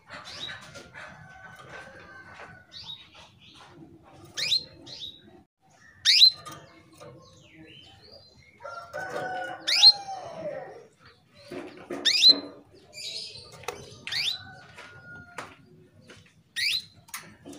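Female canary calling in breeding condition, the kind of call used to rouse a male: about six sharp, very short sweeping call notes roughly every two seconds, with softer chirps between them.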